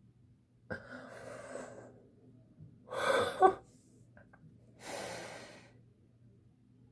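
A person's excited breathy gasps and exhales, three of them, the middle one loudest with a short voiced catch in it.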